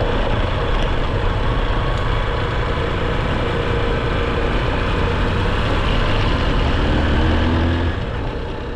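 A steady, loud engine rumble, low and even, that fades out near the end.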